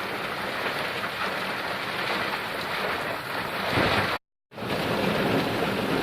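Steady rush of heavy rain mixed with wind buffeting the microphone. The sound cuts out completely for a split second about four seconds in, then resumes.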